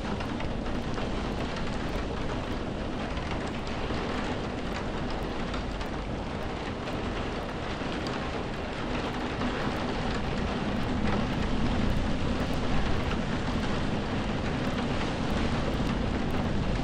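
Steady heavy rainfall: a dense, even hiss with a deep low rumble underneath. It grows a little louder about ten seconds in.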